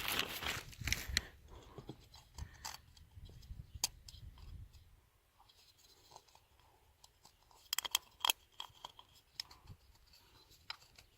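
Light handling noise: scattered small clicks and scratches of hands working with the new oil filter element and its O-ring, with a short run of sharper clicks about eight seconds in.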